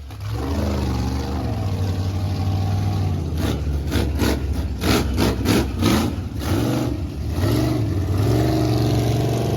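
Supercharged big-block mud truck engine revving, its pitch rising and falling, with a run of quick, sharp throttle blips from about three and a half to six seconds in.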